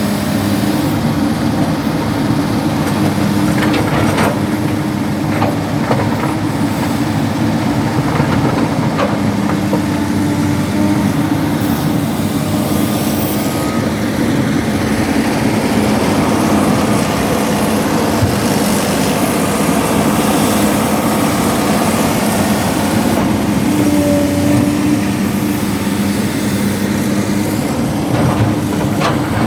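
Excavator's diesel engine running steadily while loading rocks, with a few sharp knocks now and then.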